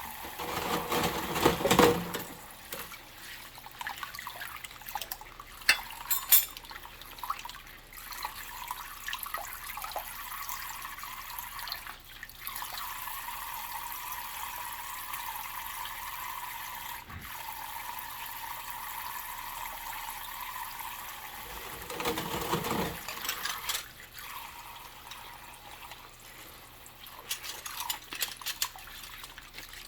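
Tap water running steadily into a sink during dishwashing, with louder splashes as water hits the dishes, once near the start and again about two-thirds of the way through, and a few sharp clinks of dishes being handled.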